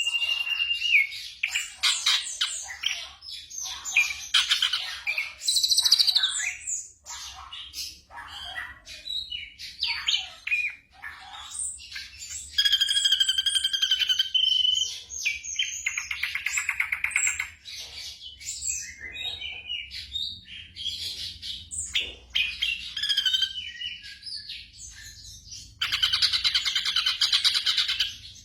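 Black drongo singing a varied run of sharp chirps, whistles and harsh buzzy notes, with a held whistle midway and a dense rattling buzz near the end.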